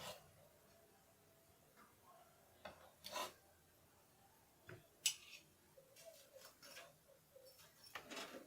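Near silence broken by a few faint, short clicks and rustles.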